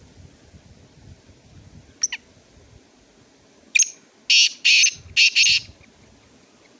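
Black francolin (kala teetar) calling: a short note about two seconds in, then a loud harsh, grating phrase of about five notes near the middle.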